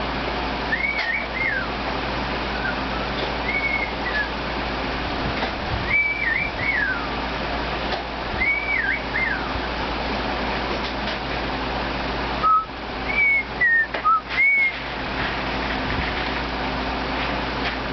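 A bird whistling short phrases, each a few quick rising and falling notes, repeated every two to three seconds over a steady background hiss.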